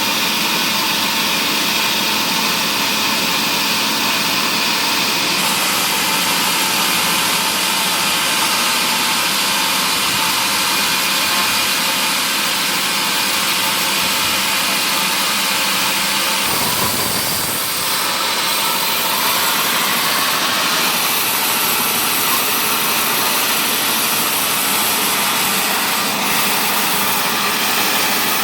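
Woodworking machinery in a sawmill running steadily, a loud, high rushing whir with a brief dip and change about seventeen seconds in.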